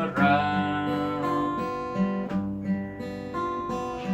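Acoustic guitar fingerpicked in a waltz-time arpeggio, the basic pattern of six plucked notes to each three-beat bar. A voice sings one lyric word over it at the start.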